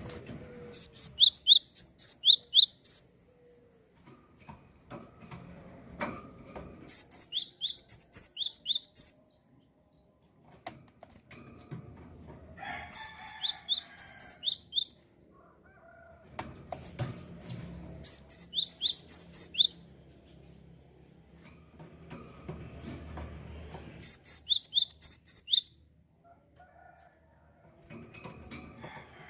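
Gelatik songbird singing vigorously in five bursts, each about two seconds of quick, high chirps that drop in pitch, with pauses of a few seconds between bursts.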